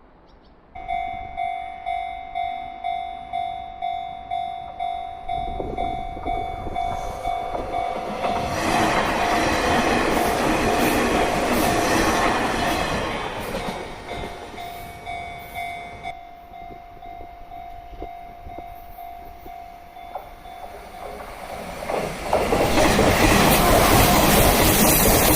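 Level crossing warning bell ringing in even pulses about twice a second, then a Nishitetsu electric train running past on the curve with wheel and rail noise, loudest about ten seconds in. The bell stops about two thirds of the way through, and another train passes loudly near the end.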